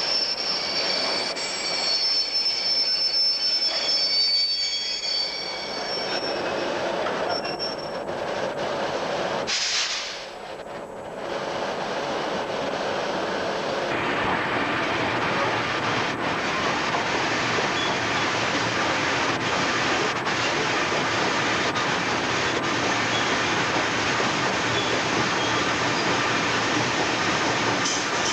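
Train moving through a station, its wheels squealing high on the rails for the first several seconds. After a brief dip about ten seconds in, the train runs on with a steady rumble and faint regular clicks of wheels over the rail joints.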